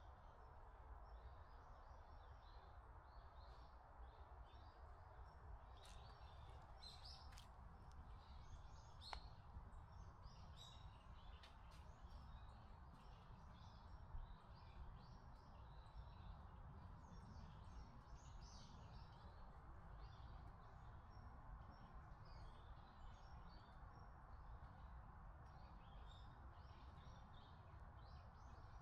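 Faint birdsong: many small birds chirping and tweeting throughout, over a steady low background noise, with a few sharp clicks about six to nine seconds in.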